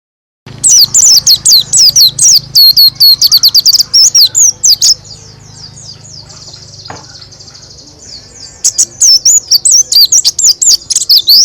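White-eye (pleci) singing a fast, loud rolling song of sharp, high, downward-sweeping chirps. About five seconds in it drops to a quieter twittering, then comes back in loud rapid bursts near the end.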